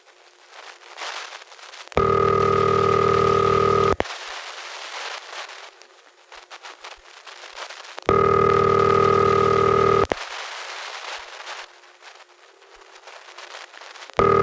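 Bell System 'city ring' ringback tone heard over a telephone line: rings of about two seconds each, six seconds apart, two full rings and a third starting near the end. Crackling static fills the gaps between rings, the sign of a mercury switch making and breaking the ringing circuit.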